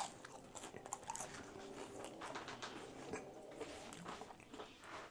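A person chewing crispy air-fried French fries close to the microphone: faint, irregular crunching and mouth sounds.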